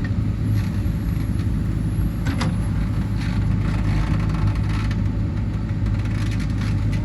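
JCB 3DX backhoe loader's diesel engine running steadily, with a single sharp knock about two and a half seconds in.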